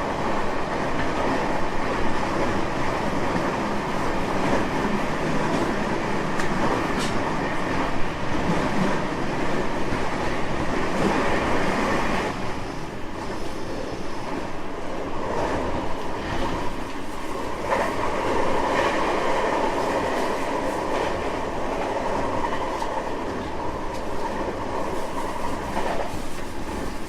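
Running noise inside a JR West 225 series 5000 electric multiple unit with Toyo IGBT traction equipment: a steady rumble of wheels on rail with rail clatter. There are a couple of sharp clicks about seven and eight seconds in.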